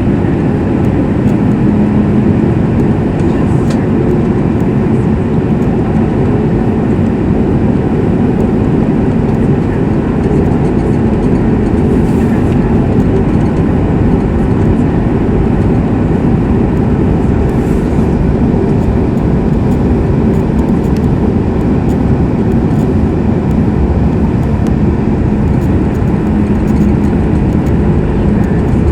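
Steady cabin noise of a Boeing 737 MAX 8 with its engines running: a constant rumble with two low, even hums.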